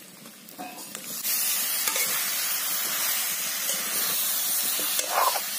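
Pork frying in its own rendered fat in a hot iron kadai, with no oil added, as sliced tomatoes go in: a steady sizzle starts about a second in. A steel spatula stirs and scrapes through the pan.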